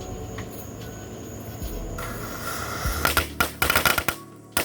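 Fireworks going off: a hiss starts about two seconds in, then a fast run of crackling pops, and one sharp bang near the end.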